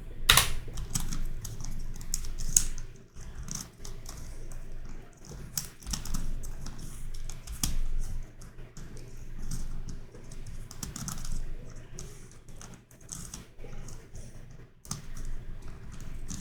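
YuXin Corner Helicopter 2x2 puzzle cube being turned quickly by hand in a speedsolve, a dense run of irregular plastic clicks and clacks from its layer turns and corner twists.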